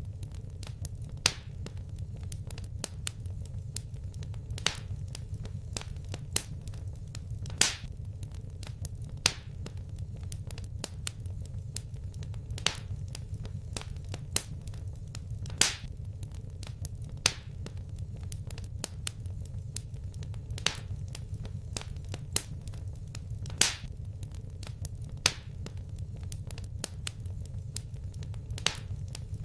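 Wood fire crackling: sharp pops and snaps, a loud one every second or two among many small ticks, over a steady low rumble.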